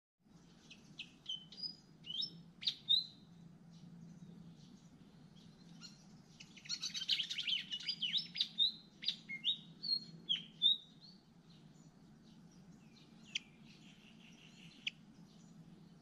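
Malaysian pied fantail chirps and short whistled notes, several sliding up or down in pitch, with a dense run of rapid chirping from about seven to eleven seconds in.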